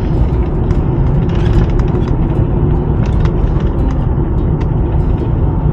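A Mazda Bongo campervan being driven: a steady engine and road rumble, with scattered light clicks and rattles over it.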